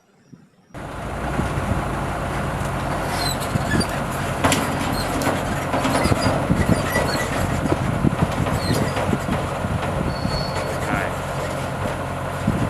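Dump truck running: a steady heavy engine sound with many clattering knocks and rattles and a few short high squeaks. It starts abruptly under a second in and runs on steadily.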